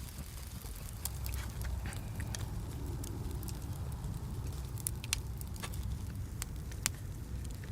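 Wood and charcoal fire crackling, with scattered sharp pops over a steady low rumble.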